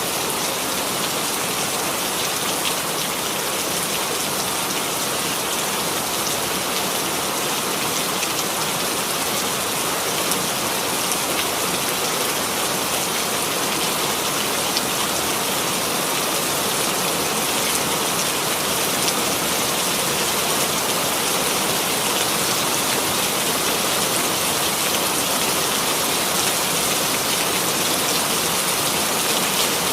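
Steady rainfall, an even hiss of drops with fine pattering, unchanging throughout.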